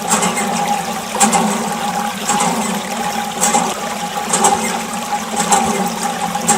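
Water rushing and splashing with a steady whine from a small electric motor, as from a mini water pump running.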